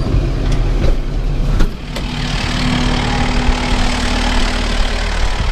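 Farm tractor engine running steadily with the round baler driven from it, with a few knocks in the first two seconds and a steady hum joining in from about two seconds in.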